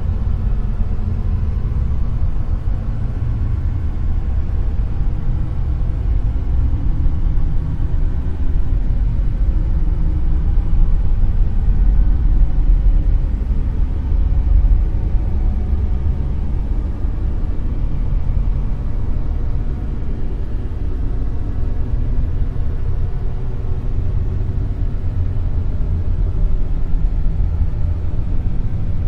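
Dark noise: a steady, deep rumbling noise with most of its weight in the lows, swelling and easing slightly.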